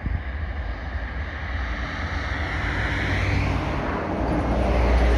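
Boeing 737 jet engines spooling up to takeoff thrust: a whine rises in pitch and the engine noise grows steadily louder, roaring by the end.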